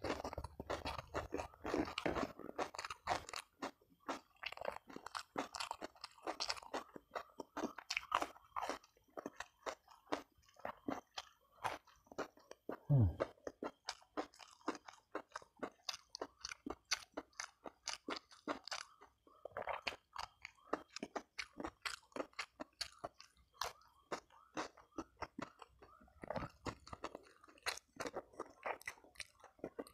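Close-miked chewing of crunchy food, dense irregular crisp crunches, with a short low falling sound near the middle.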